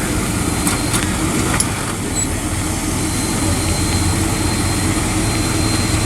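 Car engine running steadily at idle, with a few light clicks in the first couple of seconds.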